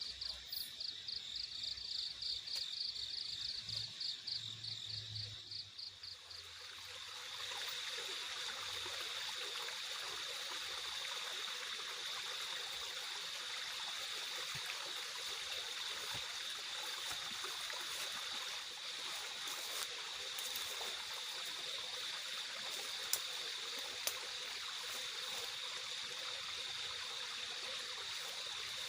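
Insects chirping in a fast, even pulsing rhythm. About six seconds in, a steady rushing of water takes over, with a high insect drone held underneath and two sharp ticks later on.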